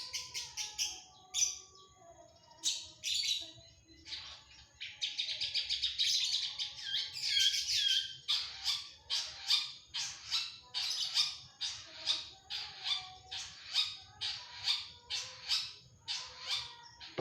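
Long-tailed shrike (cendet) singing a fast, varied song of quick chattering phrases. In the second half it switches to a run of sharp repeated notes, about two a second.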